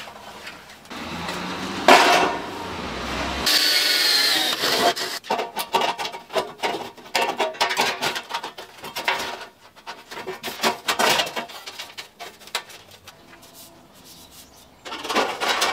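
Hand tools working wood: a sharp knock, a brief steady hiss, then a long run of quick, irregular strokes on wood.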